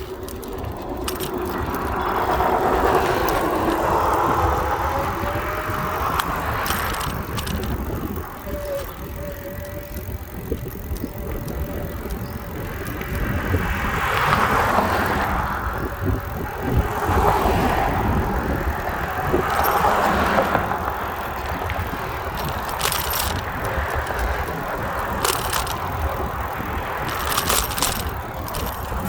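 Riding a bicycle: steady road and wind noise that rises and falls in several swells, with a few sharp clicks near the end.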